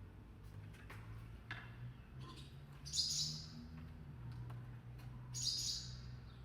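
A small bird that has flown indoors gives two short, high chirps about two and a half seconds apart, over a low steady hum.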